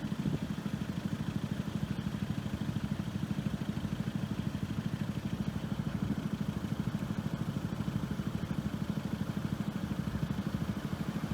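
An engine idling steadily with a fast, even pulse, about ten beats a second.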